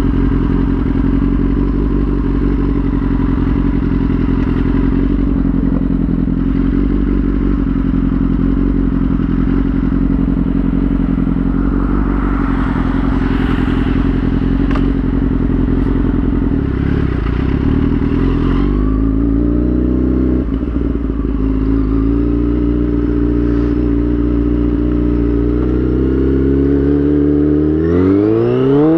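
2003 Yamaha YZF-R6's 600 cc inline-four engine running at a steady pitch, with a short dip and slight rise about two-thirds of the way through. Near the end it revs up sharply, pitch climbing fast.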